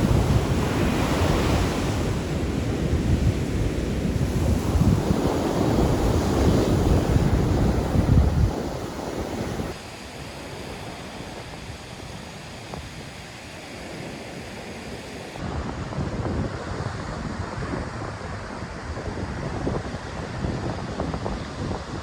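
Sea waves washing onto a beach, with wind buffeting the microphone and a heavy low rumble for the first eight seconds or so. The sound drops abruptly to a quieter wash about ten seconds in, and grows louder again around fifteen seconds.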